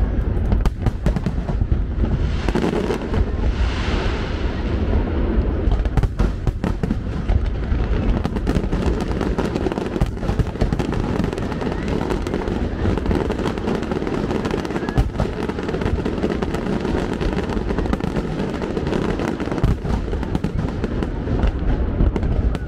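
Fireworks display: aerial shells bursting in a dense, continuous barrage, many sharp bangs in quick succession over a steady low boom.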